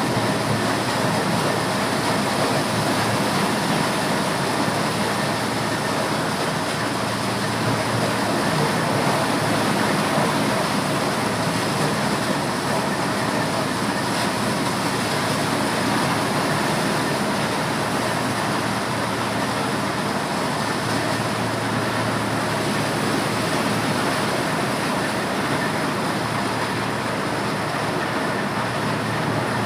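Motorized corn sheller running steadily, a continuous loud mechanical noise without letup.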